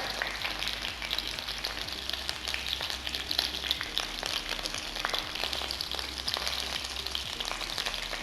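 Skin-on chicken wings shallow-frying in hot oil in an open pan: a steady sizzle with frequent small crackles and pops.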